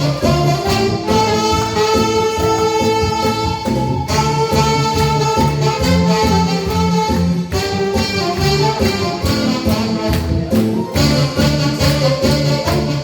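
Saxophones playing a Korean trot melody in long held notes over a backing track with a steady drum beat.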